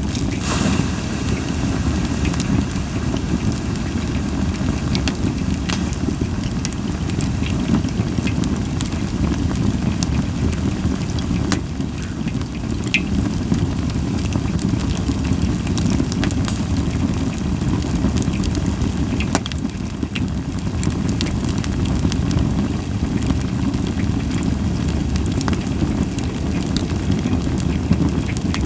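Campfire of Japanese white pine (goyomatsu) wood burning: scattered sharp crackles and pops over a steady low rumble, with little hissing.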